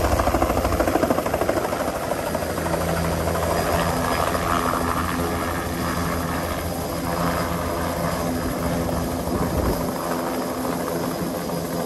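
Bell 206 JetRanger helicopter landing: a heavy beat of the rotor as it flares over the pad, easing after about a second, then the turbine and rotor running steadily once it has set down.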